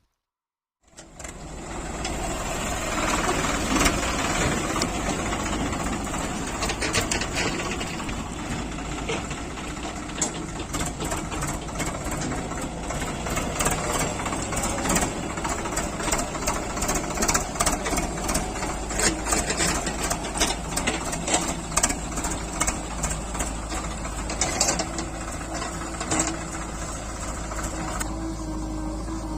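Diesel engine of heavy machinery running steadily, with a rapid clatter of sharp clicks and knocks over it. It sets in about a second in, after a brief silence.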